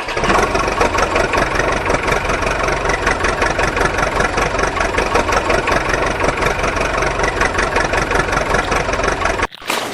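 Tractor engine idling with a fast, even chugging, cutting off abruptly near the end.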